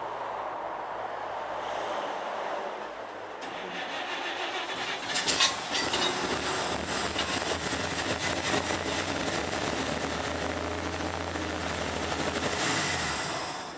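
Chevy pickup rat rod's engine cranking, then catching about five seconds in and running for several seconds before it dies near the end. It is starving for fuel: it fires and dies.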